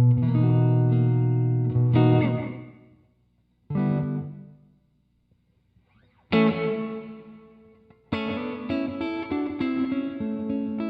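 Electric guitar played through an Alabs Cetus reverb pedal on its room setting with the decay turned up. Chords and a single note are left to ring and fade into silence, with two short silent gaps, then steady playing resumes about eight seconds in.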